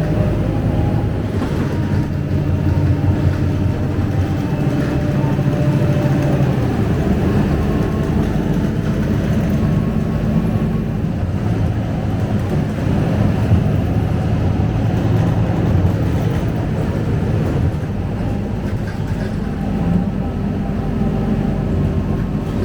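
Scania K250UB bus's rear-mounted diesel engine idling, a steady low drone heard inside the cabin.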